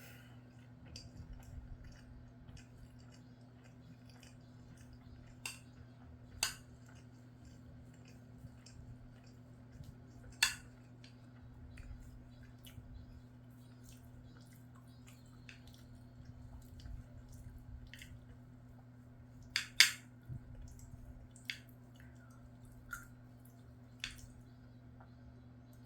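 Eating sounds: utensils clicking sharply against a bowl about eight times, loudest about ten and twenty seconds in, with soft chewing between, over a steady low hum.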